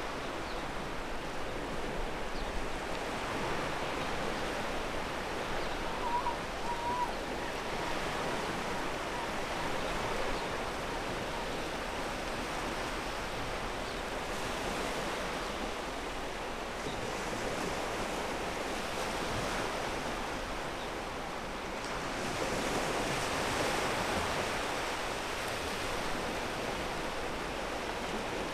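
Ocean waves washing onto a pebble beach in a steady, rolling surf that swells and eases, with a stronger surge about two-thirds of the way through.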